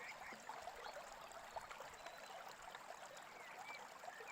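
Faint babbling stream, an even rush of water, with a few short bird chirps, one near the end.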